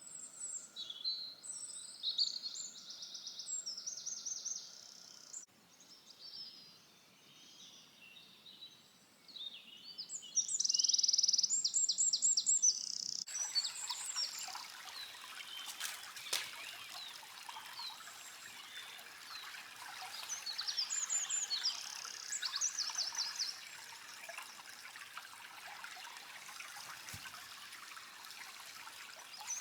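Songbirds singing in woodland, several birds with repeated trilled phrases. About halfway through, a steady rushing noise suddenly joins the birdsong and carries on under it.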